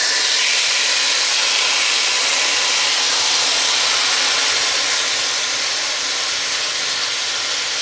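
Yogurt-marinated chicken pieces sizzling in hot oil: a loud, steady, hissing sizzle that eases slightly near the end.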